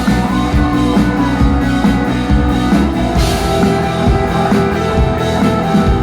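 Rock song instrumental break: guitar and drum kit playing, no singing.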